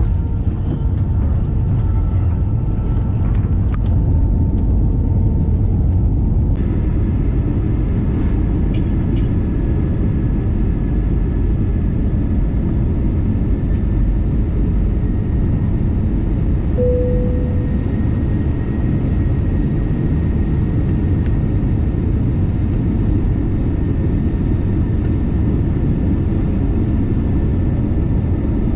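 Steady low rumble of airliner engines and airflow heard from inside the passenger cabin, with faint steady whining tones over it. About halfway through there is a brief short tone.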